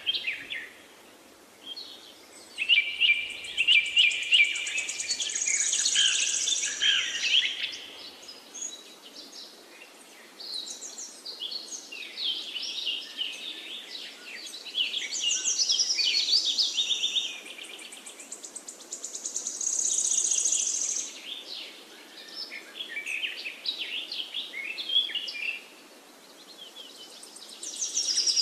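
Small birds chirping and trilling in bursts a few seconds long, with quieter gaps between them.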